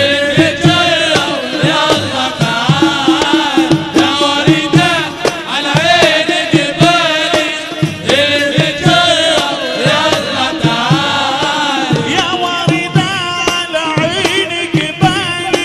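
Arabic nasheed sung live by a male munshid in a wavering, ornamented melody over a steady drum beat.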